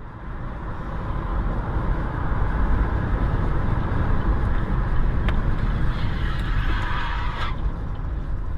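Car on the road: steady engine and tyre rumble with a hiss of road noise, swelling about a second in.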